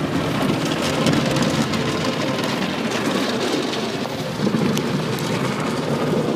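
Water jets in an automatic car wash drumming steadily on the car's body and windows, heard from inside the car like heavy rain.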